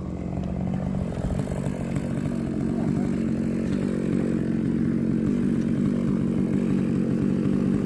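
Small engine running steadily under load, a little louder over the first couple of seconds and then holding an even note.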